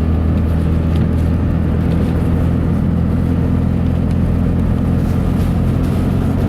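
A truck heard from inside the cab while driving, its engine running at a steady low drone under a constant wash of road and wind noise.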